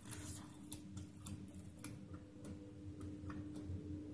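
Faint soft clicks of a mouth chewing, a few at irregular intervals, over a steady low hum.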